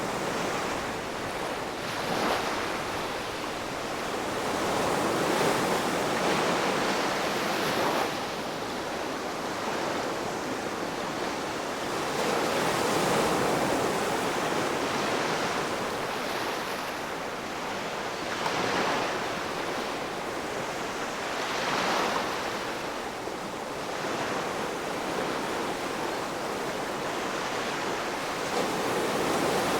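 Ocean waves breaking and washing up on a shore, a continuous rushing that swells and eases every few seconds.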